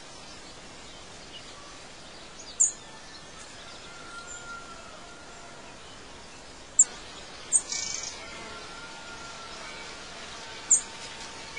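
Birds chirping now and then over a steady background hiss: four short, sharp, high-pitched chirps, two of them close together in the middle, with a few faint drawn-out whistles underneath.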